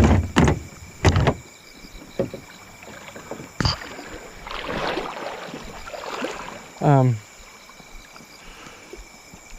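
Kayak hulls knocking and scraping against river rocks as they are handled: several sharp knocks in the first few seconds, then a longer scrape in the middle. A short grunt, falling in pitch, comes about seven seconds in.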